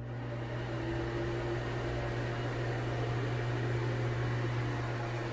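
Broan Heat-a-vent bathroom exhaust fan (70 CFM) running just after being switched on: a steady low hum with an even rush of moving air, rising slightly in the first second and then holding steady. The motor runs smoothly, without a buzz.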